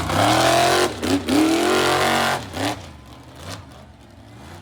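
Monster truck engine revving hard, its pitch rising and falling several times, then backing off sharply about two-thirds of the way in to a lower running note with one short blip of the throttle.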